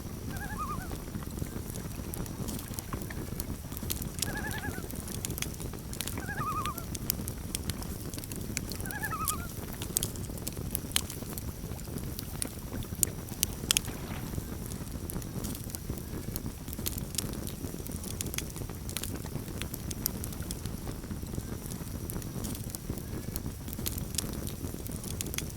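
Campfire crackling and popping steadily over a low rush of burning. Short quavering calls of a common loon sound four times in the first ten seconds or so.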